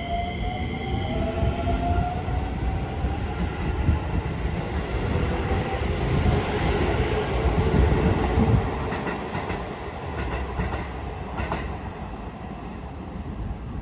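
Keisei 3000-series electric commuter train pulling away from the platform: a motor whine rises in pitch as it accelerates, over the heavy rumble of wheels on rail. A few clacks over the rail joints come as the last cars pass, and then the rumble fades as the train leaves.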